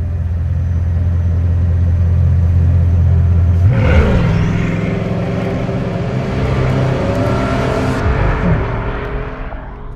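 Bugatti Chiron Pure Sport's quad-turbo W16 engine, first a steady low drone, then about four seconds in accelerating hard with a rising pitch. The sound fades out near the end.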